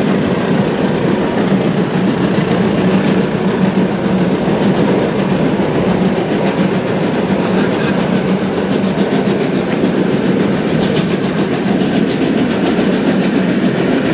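Two steam-hauled passenger trains running side by side on parallel tracks: a steady, loud rolling rumble of wheels on rails and coaches passing close alongside, with some clickety-clack.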